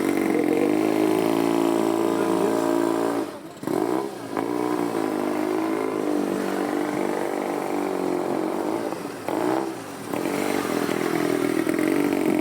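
Motorcycle engine running with a steady note, its sound dipping and the pitch swinging twice before settling back to the steady run.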